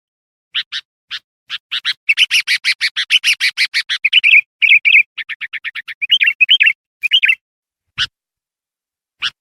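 Sooty-headed bulbul (kutilang) singing loudly: a few spaced notes, then a fast run of about eight chattering notes a second, then bubbly warbled phrases, and two lone notes near the end.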